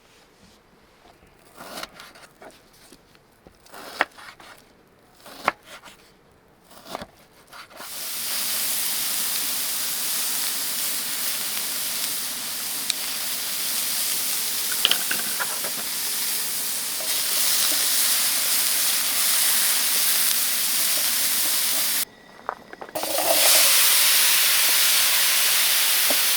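A few light clicks and knocks of things being handled, then a loud steady hiss that starts about eight seconds in and runs on, cutting out for a moment near the end before starting again.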